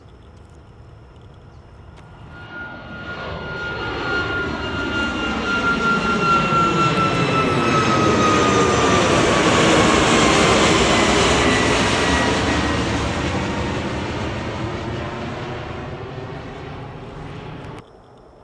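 Departing jet airliner passing by. Its engine noise builds for several seconds, peaks about ten seconds in, then fades, while a high fan whine slides down in pitch as it goes past. The sound cuts off suddenly near the end.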